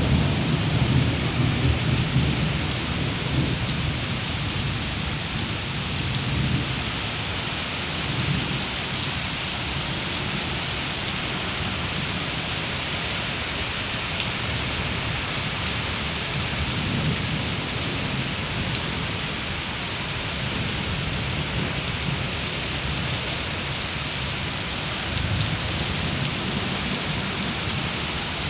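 Heavy rain pouring steadily in a storm, a dense even hiss of drops on surfaces. Low rumbling swells rise and fall several times, loudest in the first couple of seconds.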